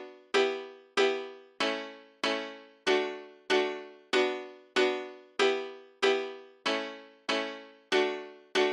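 A single electric-piano-like note struck evenly, about one and a half times a second, each strike ringing and fading before the next. Music with a heavy bass beat starts right at the end.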